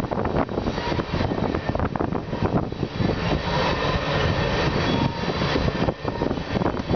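Freight train tank cars rolling past close by: a steady rumble of steel wheels on rail, broken by frequent clicks and knocks.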